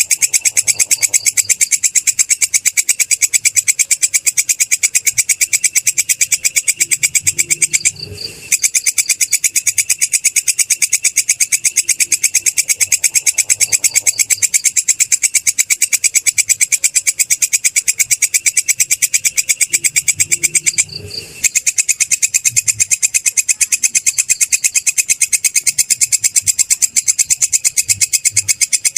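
Belalang kecek (a singing katydid) calling in a loud, continuous, rapid, high-pitched trill of pulses, broken by two short pauses.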